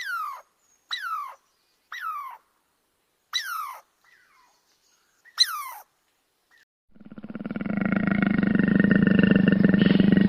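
Five short animal calls about a second apart, each sliding sharply down in pitch, then from about seven seconds in a long, deep, pulsing animal roar that swells and holds loud.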